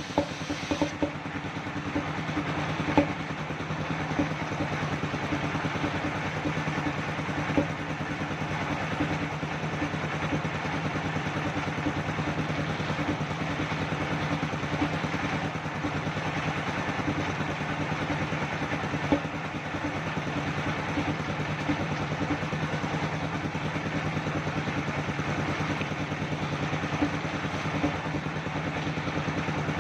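Engine-driven circular sawmill running with a steady, even hum and a few brief knocks of clatter.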